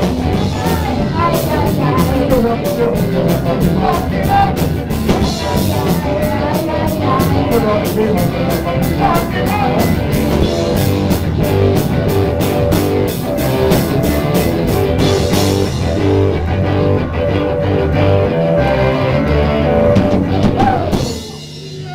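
Rock band playing a song: drum kit, guitar and singing. The drum strokes drop out about three-quarters of the way through, and the music dips briefly near the end.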